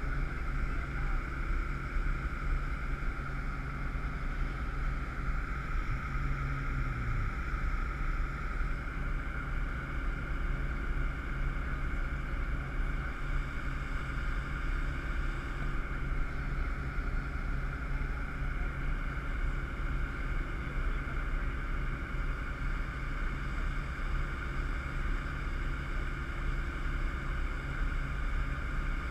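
Engine running steadily with a low hum and a constant rushing noise over it, with no change in level.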